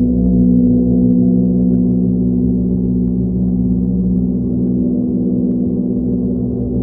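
Sound-bath drone: a deep, steady resonant hum of many overlapping sustained tones that slowly waver, with no distinct strikes.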